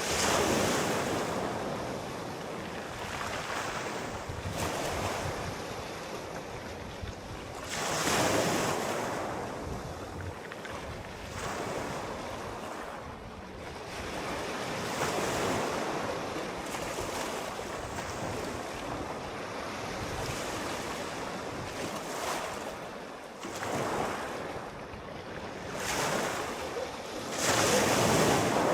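Sea waves breaking and washing on the shore, swelling and receding every few seconds, with the strongest surges near the start, about eight seconds in and near the end.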